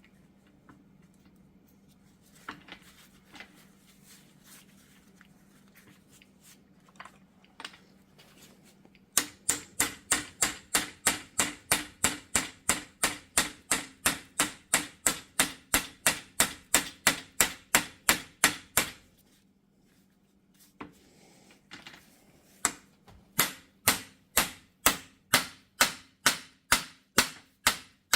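Hammer tapping a universal joint bearing cap into the yoke to seat it. The taps come as a steady run of about four sharp metallic blows a second, stop for a few seconds, then start again a little slower.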